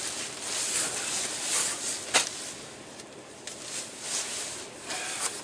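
Rustling and swishing of a Marmot 15-degree down sleeping bag's nylon shell being handled, in uneven flurries. A sharp click comes about two seconds in.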